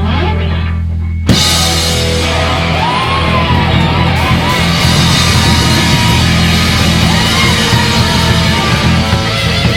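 Rock band playing live in a rehearsal room: a held low chord, then about a second in the drums and distorted electric guitars come crashing in together and the full band plays on loudly, with a bending lead line on top.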